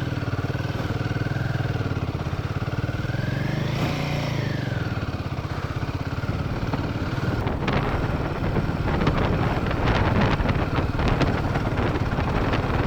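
Royal Enfield Himalayan 450's single-cylinder engine labouring through deep sand, revving up and easing off once about four seconds in. From a little past halfway, many sharp clicks and knocks from the bike and its load jolting over the rough ground sound over the engine.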